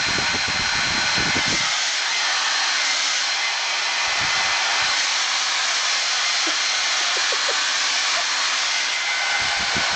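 Handheld hair dryer blowing steadily at close range: a loud, even rush of air with a thin high whine. There are low, irregular rumbles in the first second and a half and again around four seconds in.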